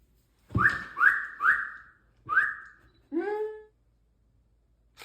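Rubber squeaky dog toy squeaked four times in quick succession, each squeak short, high and alike. A lower squeal rising in pitch follows as the toy is squeezed again.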